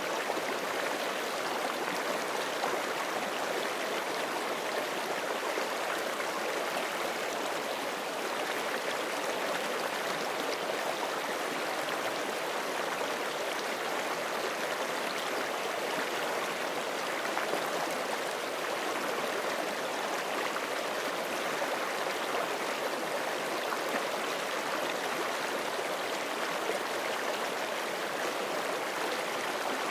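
Forest creek flowing steadily over rocks: a constant rush of water with no change.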